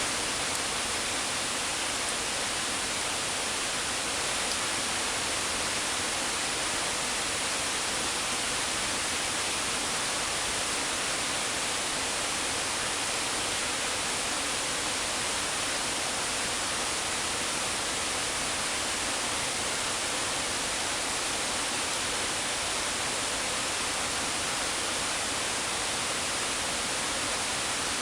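River water rushing in a steady, even hiss.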